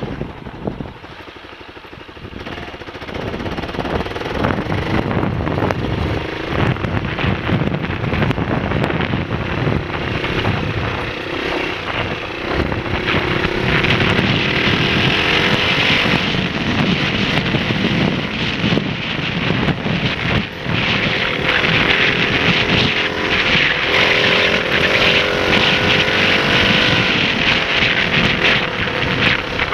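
Honda XLR125 dirt bike's single-cylinder four-stroke engine running, its pitch rising and falling as the throttle changes, louder after a short dip near the start.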